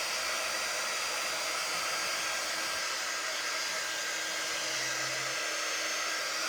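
Handheld hair dryer or heat tool blowing steadily, drying freshly applied paint paste on a craft project.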